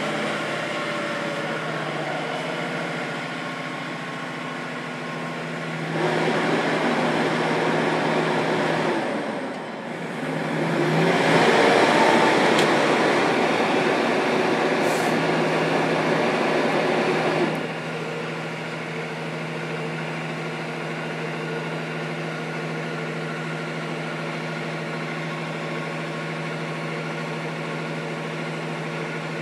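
Steady drone of an engine running. About six seconds in, a louder rush with rising engine speed joins it, dips briefly near ten seconds, comes back and cuts off suddenly near seventeen and a half seconds: the stuck semi truck's engine revving as its drive wheels spin in the snow.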